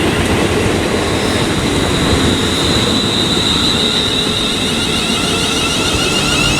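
Class 350 Desiro electric multiple unit running into the platform, a steady rumble of wheels on rail with a thin high whine that swells about halfway through.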